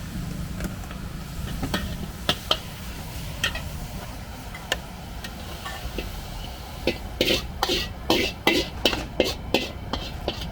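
Metal cooking utensils clanking against a wok or pans: scattered single clinks, then a quick run of clanks starting about seven seconds in, over a steady low rumble.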